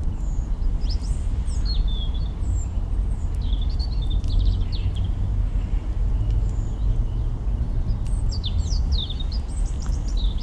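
Small birds chirping and twittering in short, high calls scattered throughout, over a steady low rumble, with an occasional faint crackle of burning twigs in a campfire.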